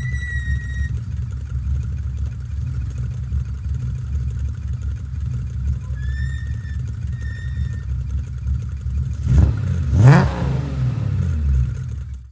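Nissan S20 twin-cam straight-six of a race-tuned Skyline GT-R running at low revs with a steady exhaust rumble. There are short high squeals near the start and about halfway through, then two quick throttle blips near the end, the second one the loudest.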